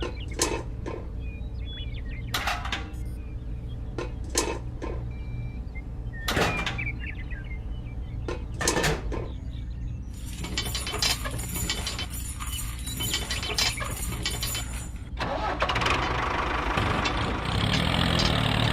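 Mini model tractor running steadily with a low hum, with scattered sharp knocks and a stretch of dense rattling in the middle. An engine sound grows louder near the end.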